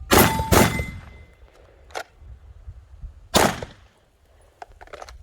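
Three pistol shots: two in quick succession right at the start, then a third about three seconds later, with a few faint clicks in between and near the end.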